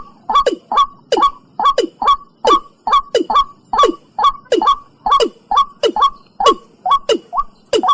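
Watercock (Gallicrex cinerea) calling: an even run of short, hollow notes, about two and a half a second, each starting sharply and dropping in pitch. This is one part of its two-part call, recorded for use as a lure.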